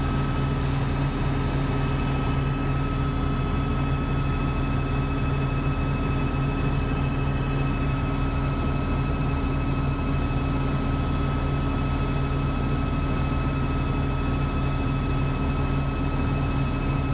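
Helicopter in flight, heard from inside the cabin: a steady low drone of rotor and engine with a thin, steady high whine over it.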